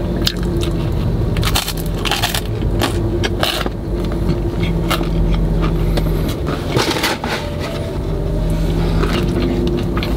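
Close-up chewing and crunching of butter chicken garlic bread: irregular crisp crunches and mouth clicks. A steady low hum from the car cabin runs underneath.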